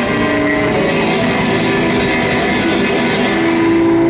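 Live guitar music: strummed and plucked guitar with sustained notes, ending on a long held note.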